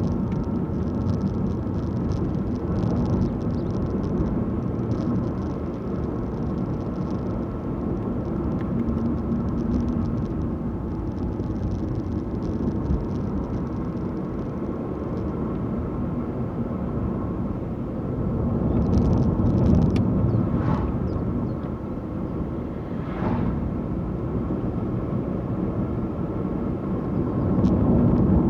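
Car driving along a road, heard from inside the cabin: a steady low rumble of engine and tyre noise that swells louder twice, about two-thirds of the way through and near the end.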